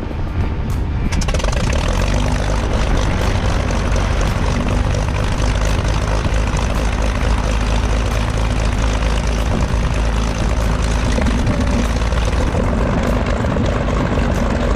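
Light propeller airplane engine running steadily and loud, growing fuller and brighter about a second in.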